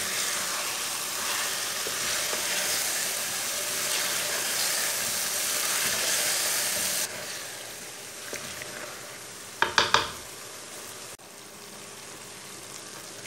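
Chicken pieces frying in oil and masala in a metal kadai, sizzling steadily while a spoon stirs them. The sizzle turns quieter after a cut about seven seconds in, and three quick sharp knocks come near ten seconds.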